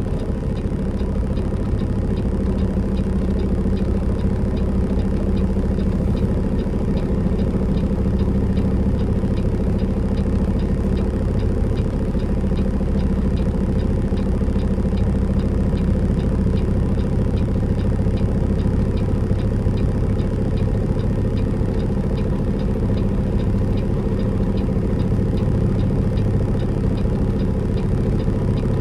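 Semi truck's diesel engine running steadily at low revs, an even drone with no change in pitch.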